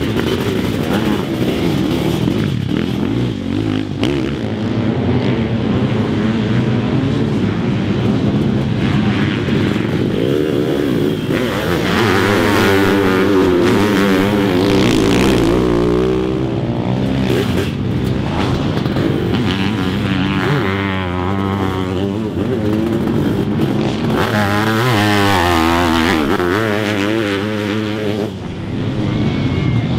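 Sidecarcross racing outfits' motorcycle engines revving hard, the pitch swinging quickly up and down as the throttle is worked. It swells loudest in two stretches, one in the middle and one near the end, as the outfits come close.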